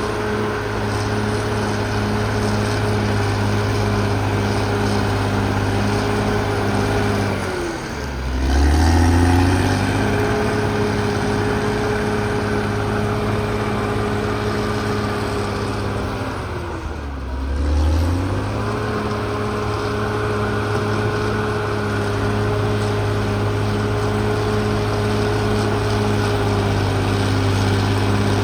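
CAT D6R XL bulldozer's diesel engine running steadily at high revs. Twice, about a third of the way in and again a little past halfway, the revs drop sharply and climb back up, with a brief swell in loudness as they recover.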